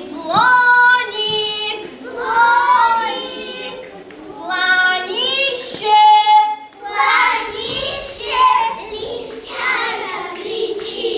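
Children singing, with several notes held steady.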